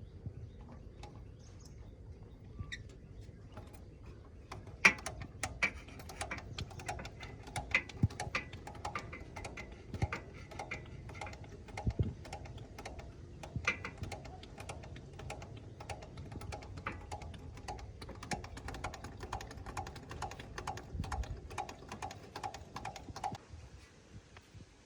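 Hand tools working metal fittings: a run of irregular sharp clicks and taps, some with a short metallic ring, starting about five seconds in and stopping just before the end, as the fuel injection nozzle pipe is refitted and its fittings tightened.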